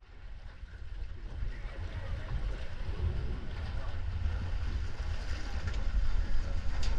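Speedboat under way on a river: heavy wind rumble on the microphone over a steady rushing hiss, getting louder.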